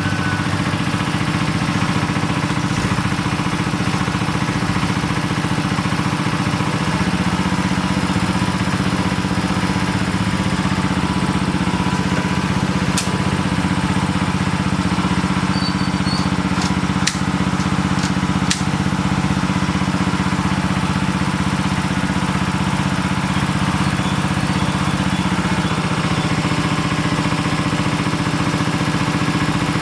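An engine running steadily at a constant speed, with a low hum whose pitch shifts slightly about a quarter of the way in and again near the end. A few sharp clicks come in the middle.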